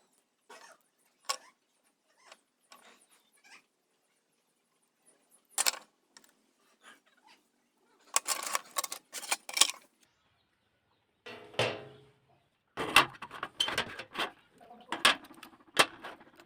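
Hands working on a small plastic electronic device: irregular sharp clicks and taps with short scraping rasps. These are sparse at first and grow busier in the second half.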